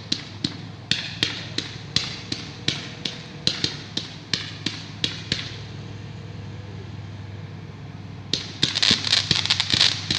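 A 47-shot consumer fireworks cake firing shot after shot, about three sharp reports a second. It falls quiet about five and a half seconds in, then resumes near the end with a dense, rapid run of crackling pops.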